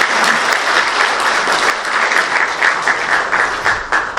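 Audience applauding, many hands clapping together; the clapping starts to thin out near the end.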